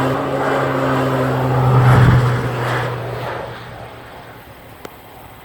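Propeller plane's engine droning as it passes, loudest about two seconds in, then fading away.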